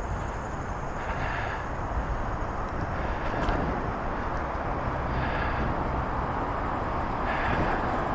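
Steady rush of wind on the microphone and rolling noise from a moving bicycle, with a brighter hiss that swells briefly several times.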